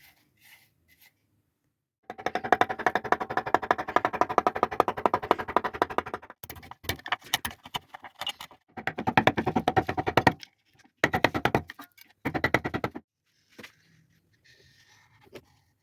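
A hand tool works against walnut wood in four bursts of rapid, even scraping ticks. The first burst is the longest, about four seconds, and short pauses fall between them.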